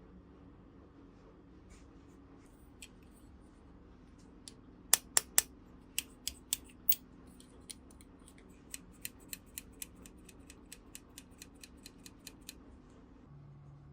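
Sharp clicks and snaps from handling small toys and their packaging: three loud ones in quick succession about five seconds in, a few more over the next two seconds, then a quicker, fainter run of about four clicks a second.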